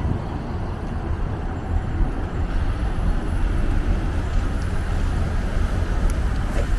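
Street traffic: motor vehicles running by with a steady low rumble.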